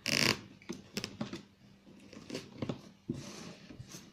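Packing tape being peeled off a cardboard box: a short ripping rasp at the start and a softer one about three seconds in, with rustling and light handling clicks between.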